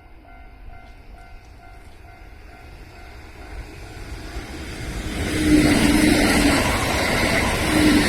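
Railway level-crossing warning bell ringing in an even repeating pattern, then a Kintetsu electric train approaching and passing the crossing: the rumble of wheels and motors builds from about four seconds in and drowns the bell, loudest over the last few seconds.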